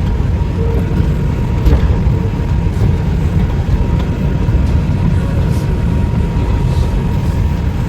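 Inside a New York City subway car on the 5 train: a steady low rumble from the train, with a faint constant tone and a few light clicks.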